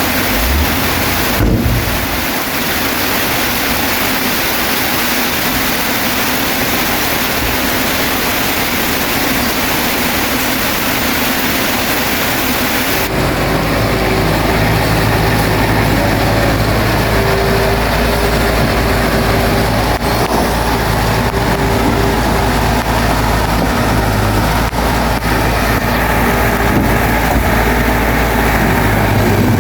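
Heavy rain as an even hiss, with a single knock about a second and a half in. About halfway through it changes abruptly to a bulldozer's diesel engine running steadily, a low hum under the rain.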